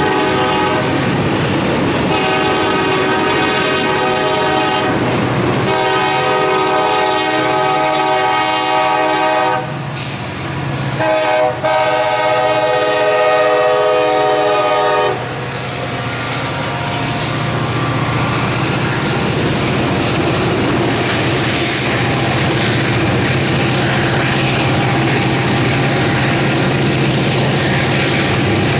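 Diesel locomotive horn blowing several long blasts with short breaks, ending about halfway through. After that, the steady low drone of a passing EMD GP40-2 diesel locomotive and the rumble and clickety-clack of freight cars rolling by.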